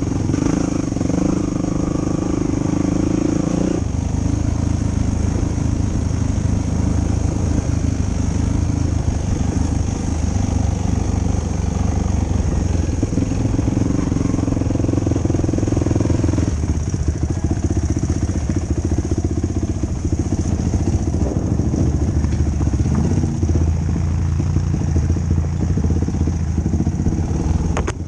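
The 2005 Yamaha YFZ450 ATV's single-cylinder four-stroke engine running under throttle while riding. Its pitch and note change with throttle and gearing a few seconds in and again about halfway through.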